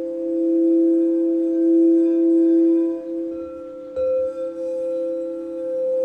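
Crystal quartz singing bowls ringing together as two sustained, steady tones, one lower and one higher, with slow swelling and fading in loudness. About four seconds in there is a short knock as a bowl is struck again, and the higher tone rings out anew.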